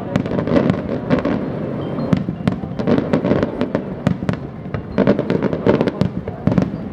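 Fireworks display: a rapid, unbroken string of bangs and crackling reports, several a second, over a continuous low rumble.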